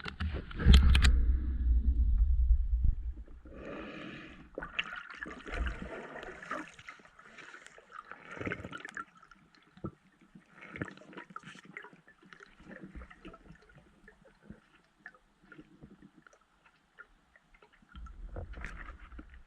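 A loud splash and low rumble of water against the camera for the first few seconds, then quieter gurgling and bubbling of water with scattered small clicks, as heard during a spearfishing dive underwater. The low rumble comes back near the end.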